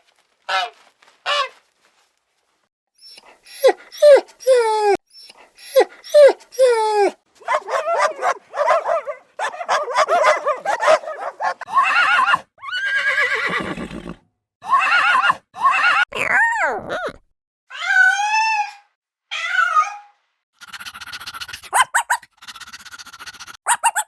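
A series of varied animal calls: several short falling yelps, then longer cries and wavering calls, and a run of quick clicks near the end.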